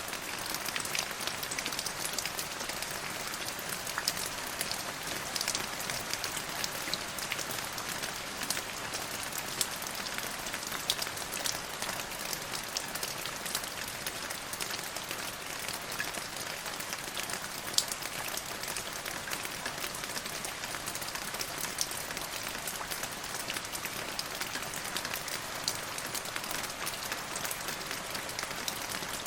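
Steady rain falling on a hard surface, a continuous hiss with many individual drops pattering and ticking through it.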